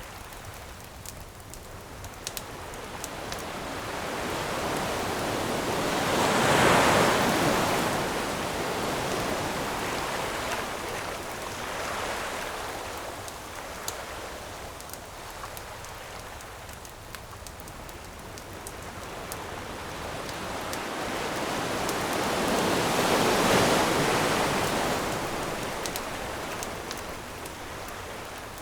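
Ocean waves washing onto a shore: two large waves swell up and die away, one about seven seconds in and one near the end, with a smaller one between. Light crackling of a campfire ticks over the surf.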